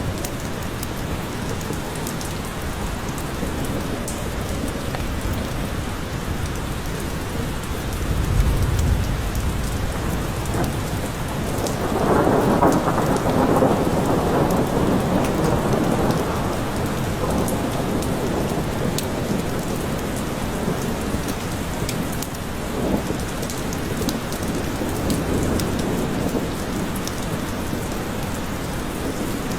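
Steady, heavy rain falling in a forest, with rolling thunder: a low rumble about a third of the way in and a louder peal near the middle that slowly dies away.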